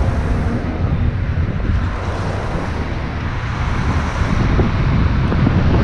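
Wind buffeting the microphone of a rider on a moving electric dirt bike, a rough, steady rumble that eases slightly in the middle and picks up again near the end.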